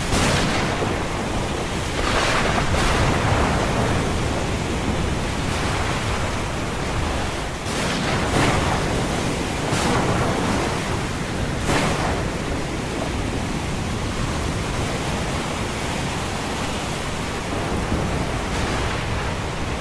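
Ocean surf washing in a continuous rush, with louder surges of breaking waves every few seconds, over a steady low rumble.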